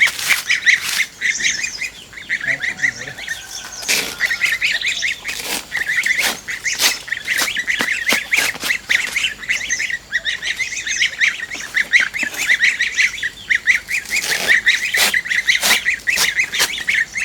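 A large flock of domestic waterfowl calling all at once: a dense, unbroken chatter of short honks and quacks, with sharp knocks scattered through it.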